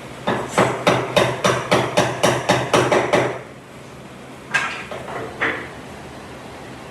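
Hammering: a quick, even run of about a dozen sharp blows, about four a second, then a pause and two more single blows.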